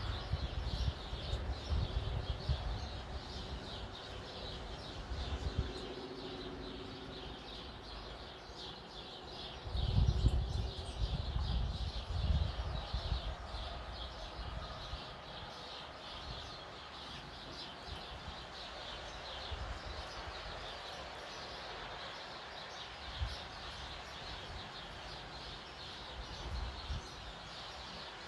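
Many small birds chirping in quick, overlapping short notes. Low rumbles come and go in the first few seconds and again about ten seconds in.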